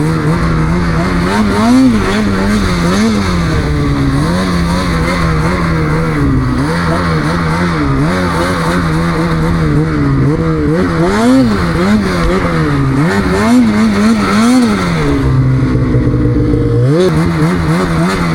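Snowmobile engine revving up and down again and again under throttle in deep snow. It drops to a low idle for a second or two near the end, then revs up again.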